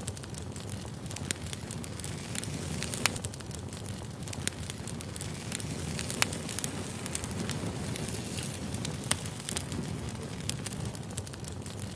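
Wood campfire burning: a steady low rush of flame under irregular sharp crackles and pops from the burning logs, with a few louder pops standing out.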